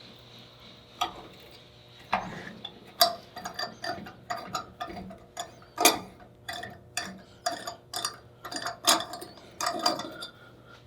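Irregular light metallic clicks and clinks of hand tools and steel parts being handled and fitted, about one to two a second with small clusters, while a bolt-in exhaust hanger is worked on.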